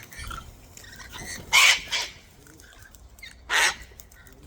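Wild cockatoos calling: two short, harsh, loud screeches about two seconds apart, with softer chatter and clicks between them.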